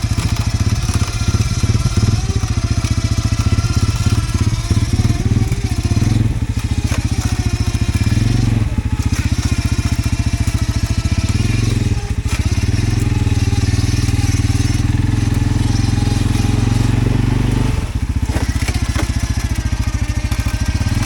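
CFMoto ATV's single-cylinder engine running at low throttle, creeping along, its note rising and falling a few times with small throttle changes.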